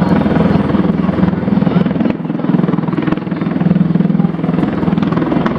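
Bell Boeing MV-22 Osprey tiltrotor in flight, its proprotors making a loud, steady, rapid pulsing beat, easing slightly for a moment about two seconds in.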